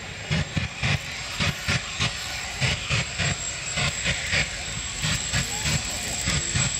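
Jet engine of a jet-powered outhouse running, with irregular sharp pops and crackles several times a second and a thin steady high whine.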